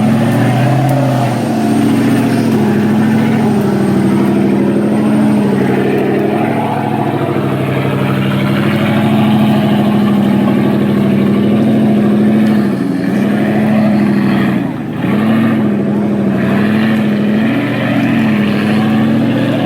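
A 4x4's engine working hard off-road, its revs rising and falling again and again as the throttle is worked.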